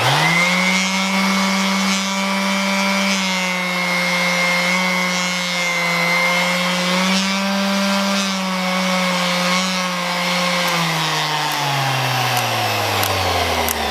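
Bauer random orbital sander switched on and running at a steady high speed, then its motor winding down in pitch over the last three seconds as the speed is turned lower.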